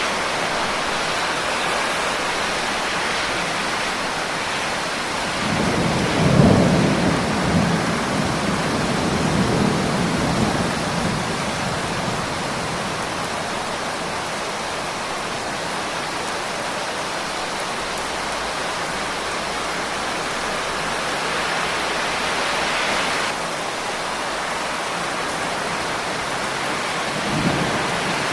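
Steady heavy rain hissing, with a roll of thunder that swells about six seconds in and fades out over several seconds, and a shorter low rumble near the end.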